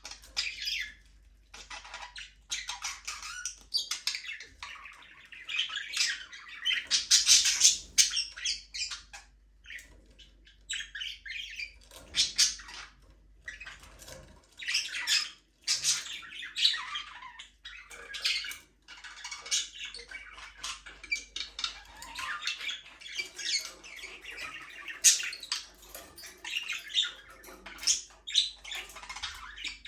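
Budgerigars chattering and chirping: quick, warbling calls and squawks from several birds, coming in bursts with brief pauses.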